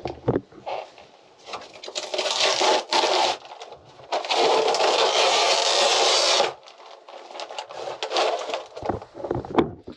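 Peel ply being torn off a cured epoxy patch: crackling, tearing pulls, with one long rip from about four seconds in that stops abruptly after about two seconds.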